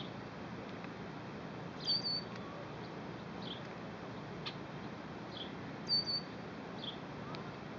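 Small birds chirping: short high chirps every second or two, with two louder, sharper calls about two seconds in and about six seconds in, over a steady hiss of open-air background noise.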